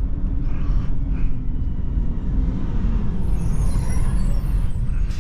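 2021 Toyota Tacoma pickup truck driving, a steady low rumble of engine and road noise with a faint engine note running through it.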